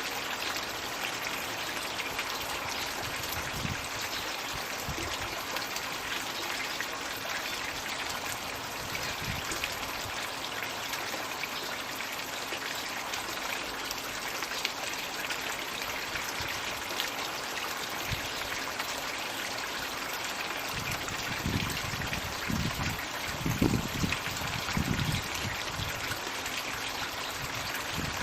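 Steady trickling and splashing of water from a floating Magic Bucket pond fountain, water pouring from a tipped bucket into the pond. A few low bumps sound over it about three quarters of the way through.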